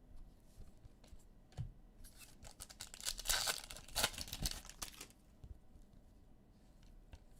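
Foil wrapper of a trading card pack being torn open and crinkled, a burst of crackling rustle about two seconds in that lasts a few seconds, with light handling noise before and after.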